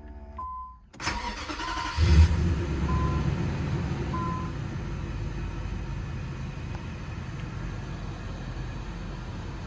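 Infiniti Q45's VH41DE V8 cranked by the starter and catching about two seconds in, then settling into a steady idle, started to test whether the reseated ignition coil has cured the rough idle and misfire. A warning chime beeps a few times, about once a second, as it starts.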